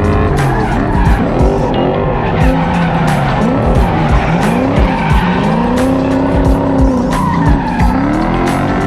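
A drift vehicle's engine revving up and down over and over, pitch rising and falling in quick arcs, with tyres skidding as it slides. Background music with a steady beat plays over it.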